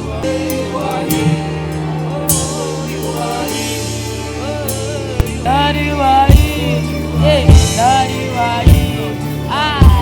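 Live gospel worship music: a saxophone plays a lead line with sliding, bending notes over sustained low keyboard chords and a light drum kit. The lead phrases grow louder about halfway through.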